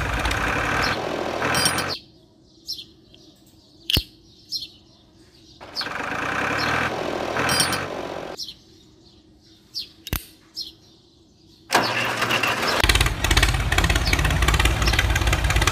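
Tractor engine sound running in three loud stretches, cutting off twice for a few seconds at a time. In the gaps, birds chirp and there are a couple of sharp clicks.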